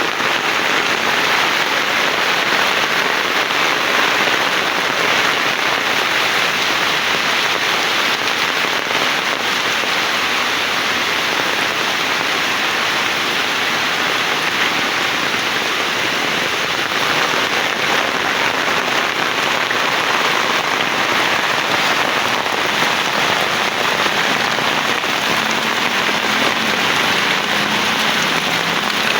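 Heavy rain pouring steadily, a dense, even hiss of falling water with no pauses.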